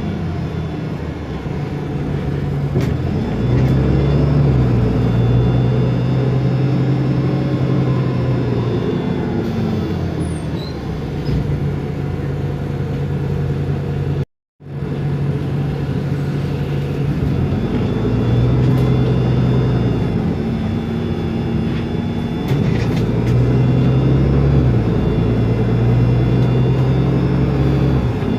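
Otokar Kent LF city bus's Ford Ecotorq Euro 6 diesel engine and Voith DIWA 864.6 automatic gearbox running, the engine note rising and levelling off several times as the bus pulls and the gearbox works through its gears. The sound cuts out completely for a moment about halfway through.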